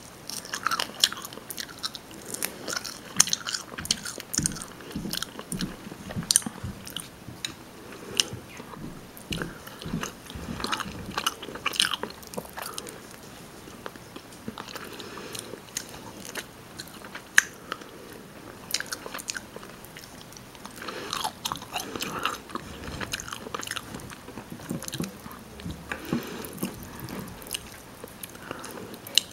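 Close-miked chewing and biting of rotisserie chicken: irregular wet mouth clicks and smacks, thinning out for a few seconds around the middle.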